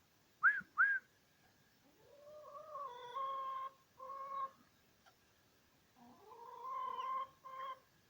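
Australian king parrot calling: two short, sharp whistled notes about half a second apart, then longer drawn-out calls in two pairs, each pair lasting about two seconds.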